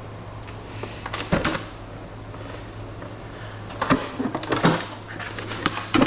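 Irregular metallic knocks and clatter of tools and parts being handled while an air conditioner is taken apart, in three clusters, over a steady low hum.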